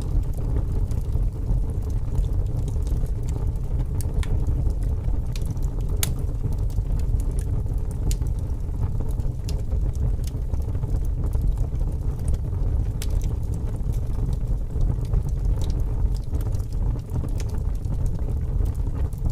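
Wood fire crackling, with scattered sharp pops and snaps, over a steady low rush of strong wind.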